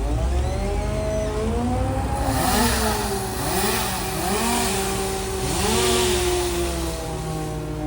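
Chainsaw revved up and down repeatedly, about once a second, over the steady drone of a larger engine.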